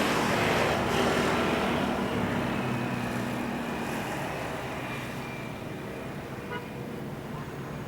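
Airbus A330 jet engines at takeoff power: a steady roar with faint whining tones, fading as the airliner moves away.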